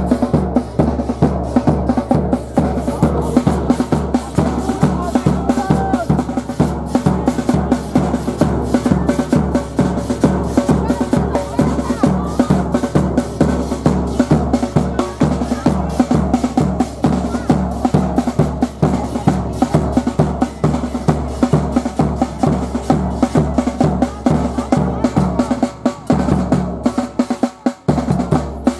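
Supporters' drums beaten in a steady, quick rhythm, about three or four beats a second, over crowd voices. The drumming breaks off briefly near the end.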